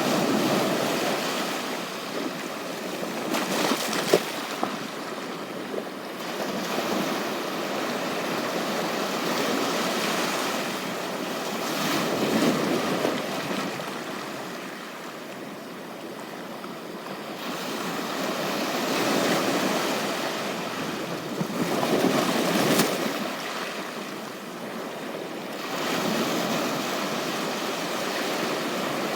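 Waves washing onto a beach, the surf swelling and falling back every few seconds. Two sharp clicks sound over it, one about four seconds in and one later.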